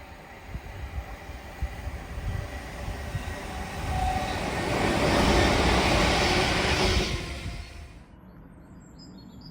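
Freight train running past, its rumble building to its loudest about five to seven seconds in, then dropping away sharply about eight seconds in.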